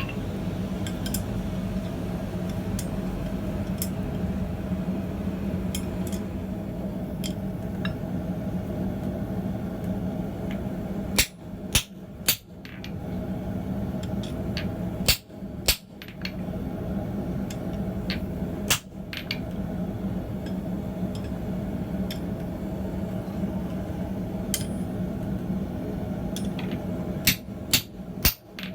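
Hammer blows ringing on steel at an anvil in small clusters: three a little after ten seconds in, two around fifteen seconds, one near nineteen, and three near the end, with lighter clinks between. A steady hum runs underneath.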